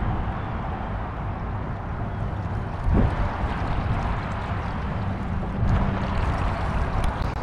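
Wind rumbling on the microphone over water lapping against a small boat, with a stronger gust about three seconds in.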